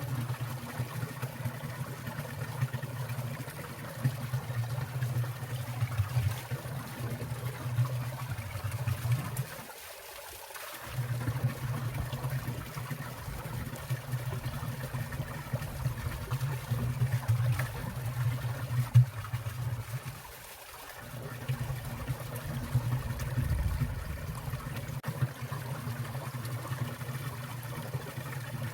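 Water trickling and splashing in a winter valley stream, steady and continuous, with brief dips about ten and twenty seconds in.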